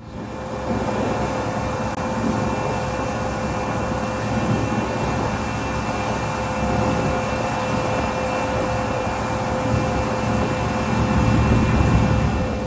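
A steady engine drone with a low rumble and a few held tones, fading in at the start and growing a little louder near the end.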